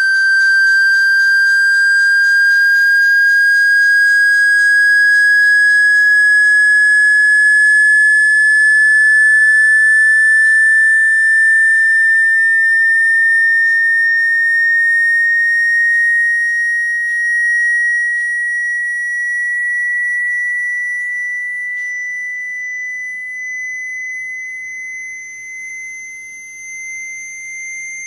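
A single clear high whistling tone, held and slowly rising in pitch, with a fast fluttering crackle under it at first; it grows softer and wavers near the end.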